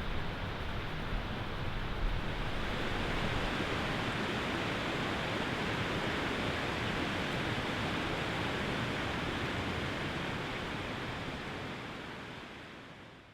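A steady rushing noise that fades out over the last couple of seconds.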